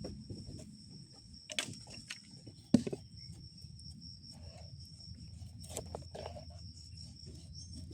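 Steady high-pitched trilling of insects, with a few scattered knocks. The loudest is a single sharp knock about three seconds in.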